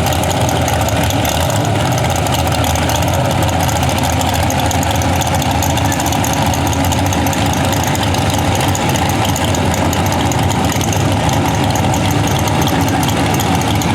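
Modified pulling tractor's 502 big-block V8 idling loudly and steadily, with no revving.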